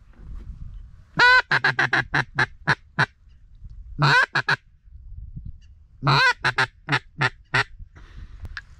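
Duck call blown in hen-style quacking runs, three in all. Each run opens with a longer quack and then steps through a string of short quacks. The first and last runs have six or seven notes each; the short middle one has three.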